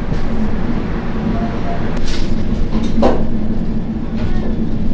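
Express train running, heard from inside a coach: a steady rumble with a constant low hum, and a couple of sharp knocks about two and three seconds in.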